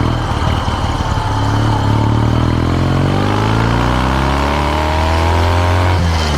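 Kawasaki W650 parallel-twin exhaust through an r's gear Wyvan Classic muffler while riding. The engine note holds steady for a couple of seconds, then rises as the bike accelerates, and falls sharply near the end at a gear change.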